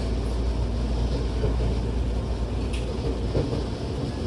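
Tokyo Metro 08 series electric train with Mitsubishi IGBT VVVF inverters running at speed, heard from inside the passenger car: a steady rumble of wheels and running gear on the rails.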